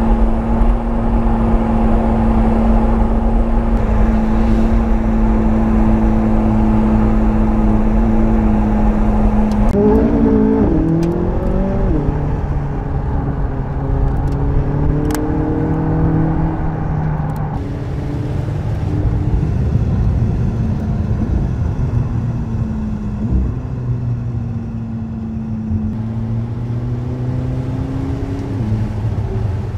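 McLaren 675LT Spider's twin-turbo 3.8-litre V8 running at a steady cruise, then about a third of the way in its pitch jumps up and down through quick gear changes, with a few sharp cracks. After that it runs on at a lower, varying note under light throttle.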